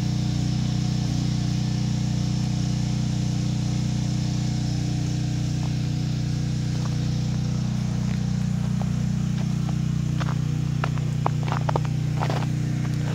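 Portable generator engine running steadily with an even hum. A run of sharp crunches comes in near the end.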